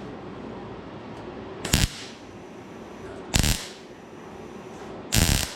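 Three short bursts of welding on a steel fender, about one and a half seconds apart, each a fraction of a second long: tack welds filling holes burnt through the thin panel.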